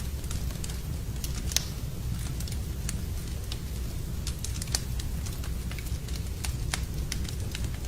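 Fireplace fire crackling: irregular sharp pops and snaps, a few louder ones about a second and a half in and near five seconds, over a steady low rumble.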